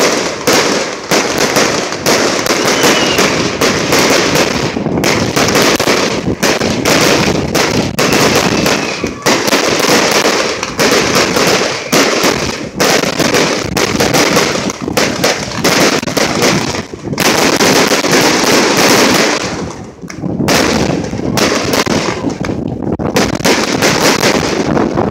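Fireworks going off in a long, loud, rapid barrage of crackling pops, with brief lulls about two-thirds of the way through.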